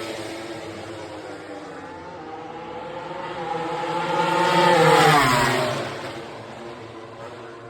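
A MotoGP racing motorcycle passing at speed. The engine note rises as it approaches, is loudest about five seconds in, then drops in pitch and fades as it goes away.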